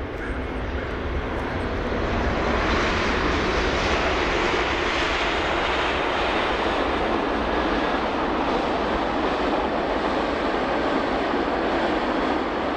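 Jet airliner engines at takeoff power: a loud, even rushing roar that swells about two seconds in and then holds steady.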